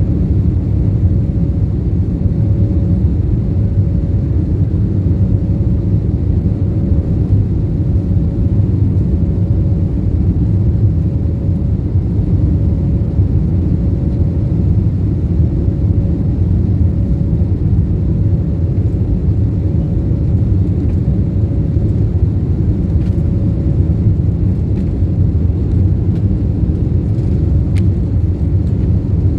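Jet airliner cabin noise: a steady low rumble of the engines and airflow, with a faint hum that wavers on and off above it.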